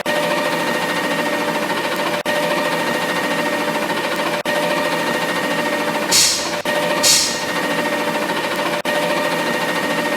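Steady mechanical hum with several even tones, broken by a short sharp hiss about six seconds in and another a second later.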